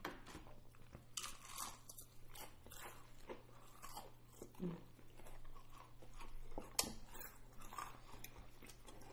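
Two people biting and chewing crunchy fried chicken: faint, scattered crunches, with one sharper click about seven seconds in.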